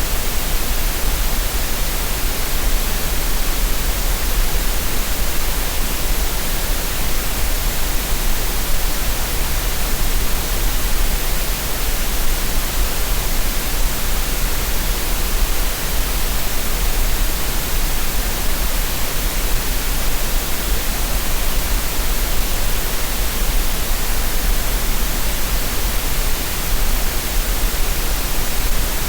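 Steady synthetic green noise: an even, unchanging hiss with a strong deep rumble underneath, made as a masking sound for relaxation and tinnitus.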